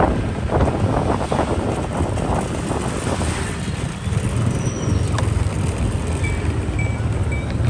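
Motorbike traffic: small motorbike engines running steadily, with wind rumbling on the microphone during the first half. From about six seconds in, a short high beep repeats quickly.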